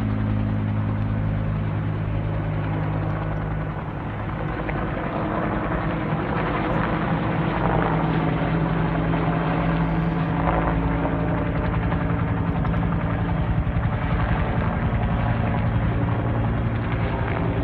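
Helicopter rotors and engine beating steadily, dipping slightly a few seconds in, then growing louder and staying loud.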